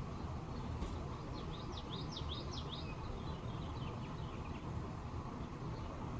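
A small songbird singing a quick run of high, downward-sweeping chirps that starts about a second and a half in and fades out by about four seconds. Underneath is a steady low rumble of background noise.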